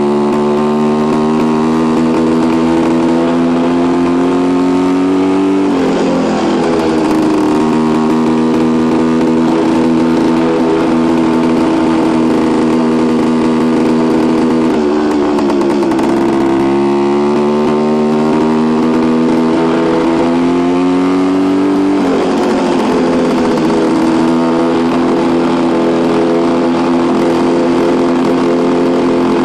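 1973 Suzuki TS250's single-cylinder two-stroke engine running under way. The pitch climbs slowly under throttle and drops suddenly three times as it shifts up through the gears, then holds fairly steady near the end.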